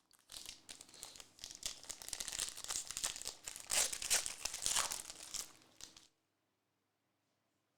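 Plastic trading-card pack wrapper crinkling and crackling as it is torn open and handled, for about six seconds, then it stops.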